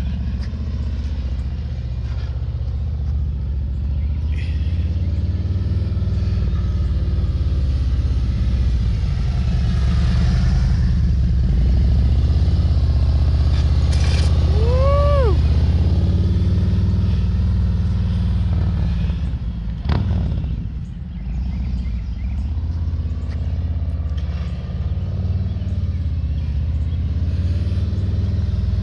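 Harley-Davidson V-twin engine running at walking pace in slow-speed drills, a steady low rumble that swells a little near the middle. A short squeal rises and falls in pitch about halfway through, and a sharp click comes a few seconds later.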